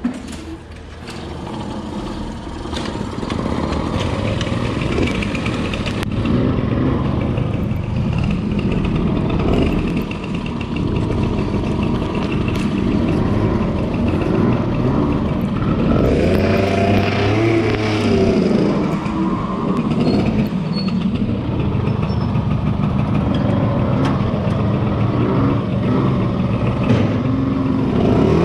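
Motorcycle engine and wind noise while riding. It builds over the first few seconds as the bike pulls away, then holds steady at cruising speed.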